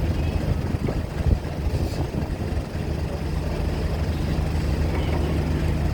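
Heavy engine running steadily with a low hum, with a short knock a little over a second in.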